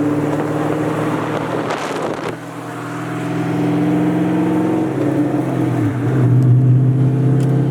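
Car engine pulling under acceleration, with a brief dip about two seconds in, as at a gear change, then climbing in pitch again.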